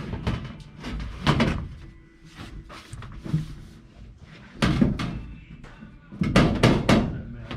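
A series of knocks and clunks, loudest in a cluster near the end, as a bent roll-bar tube is handled and set into the truck's cab.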